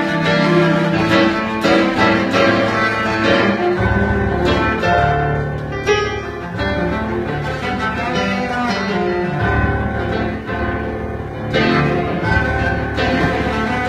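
A cello and a busker's instrument jamming together, improvised: long bowed cello notes over a plucked, strummed accompaniment.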